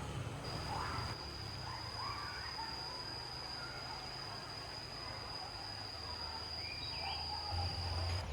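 Tropical riverside nature ambience: an insect's steady high-pitched whine starts about half a second in and stops near the end, over scattered bird chirps and a low rumble.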